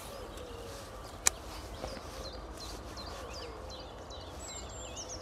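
Songbirds chirping and singing in many short, high notes, with a fainter wavering lower call now and then. One sharp click about a second in.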